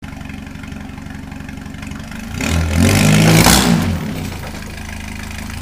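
A vehicle engine idling, revved hard once about two and a half seconds in for a second and a half, with a rush of noise at the peak, then dropping back to idle.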